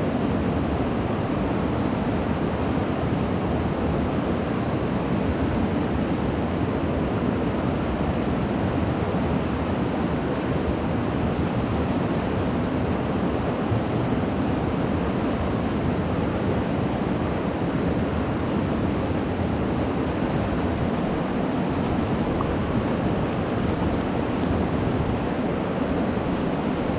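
Steady, unbroken rush of moving water, even in level throughout.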